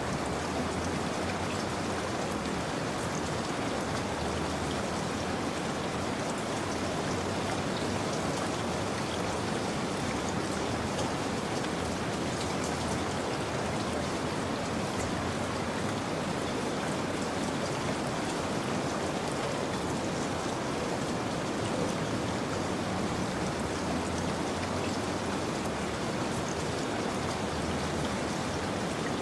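Steady rain falling, with fine pattering drops.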